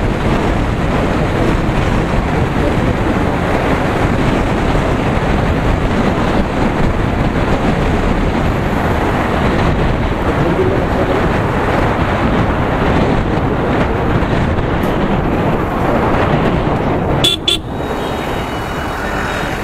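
Steady rush of wind and road noise from a motorcycle being ridden, with a short break and a click about 17 seconds in.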